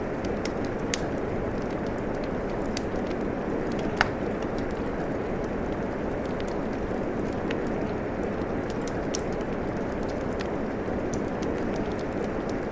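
Steady rain hiss mixed with a wood fire crackling, small sharp pops scattered throughout, the loudest pop about four seconds in.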